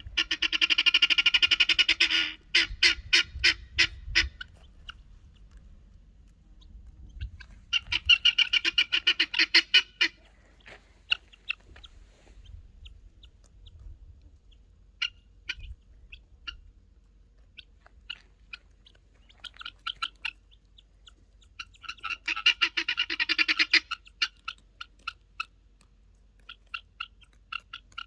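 Guinea hens (domestic helmeted guineafowl) calling. Three loud runs of rapid, harsh repeated notes come at the start, about eight seconds in and about twenty-two seconds in; these are the calls of an annoyed guinea. Softer scattered chirps fill the gaps between them.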